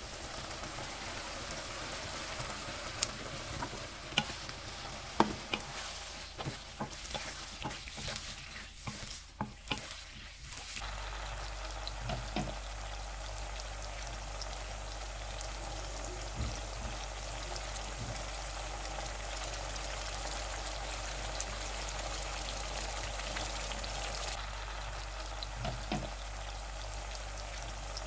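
Chicken liver and gizzards sizzling in a spiced onion gravy in a wok, stirred with a wooden spatula. Sharp knocks and scrapes of the spatula against the pan come through for the first ten seconds or so, then the sizzle carries on steadily.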